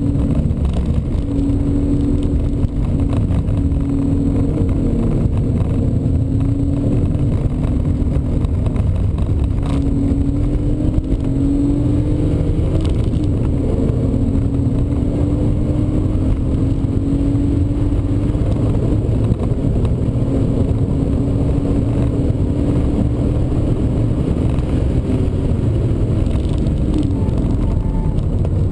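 BMW E36 320i's 2.0-litre straight-six engine, heard from inside the cabin, pulling hard on a track lap. The pitch climbs repeatedly and drops back at each gear change or lift for a corner, over steady road and tyre rumble.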